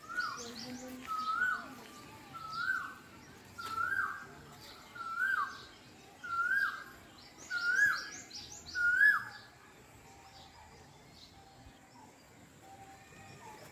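A bird calls one two-part note over and over, about eight times, a little more than a second apart. Each call is louder than the last, and the calls stop about two thirds of the way through. Smaller birds chirp faintly at a higher pitch.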